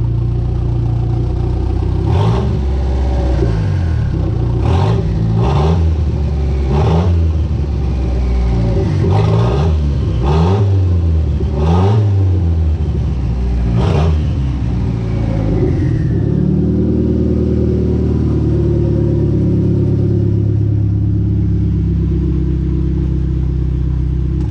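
Turbocharged Mitsubishi G54B 2.6-litre four-cylinder engine revved in a series of quick blips that rise and fall, then settling to a steady idle for the last several seconds. It is running cleanly on a stock fuel pressure regulator that now holds pressure, after a faulty aftermarket regulator was blamed for its fuel trouble.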